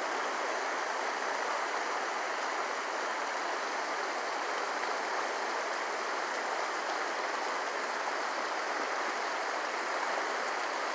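Flowing creek water rushing steadily, an even, unbroken hiss.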